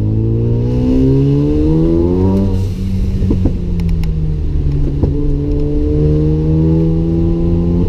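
Mazda RX7's single-turbo rotary engine pulling hard, rising in pitch under acceleration. It drops at a gear change about two and a half seconds in, then climbs again.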